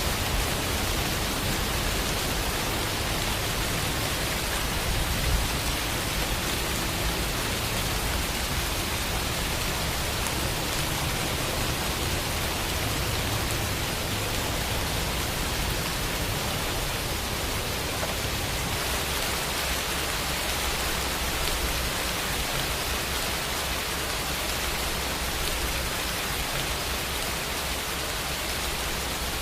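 Steady rain falling, an even hiss of many drops, with one slightly louder drop or splash about five seconds in.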